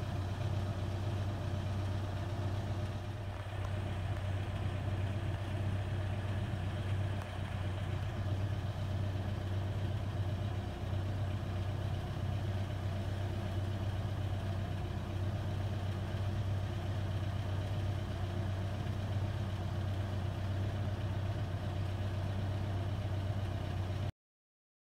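Engine idling steadily: a constant low hum with several steady tones over it, which cuts off suddenly near the end.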